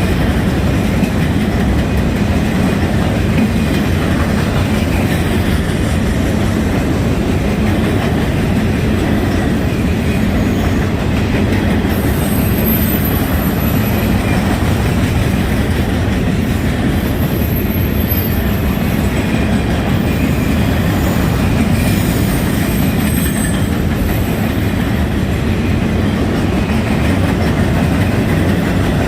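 Freight train cars rolling steadily past on the track, with a constant rumble and the clickety-clack of wheels over rail joints. A few brief, high wheel squeals come partway through.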